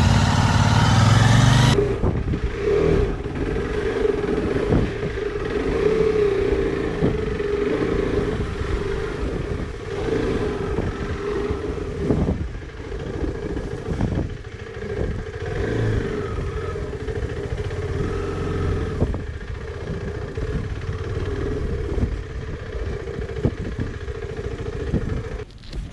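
Motorcycle engine running, with irregular knocks and clatter underneath. The sound changes abruptly about two seconds in.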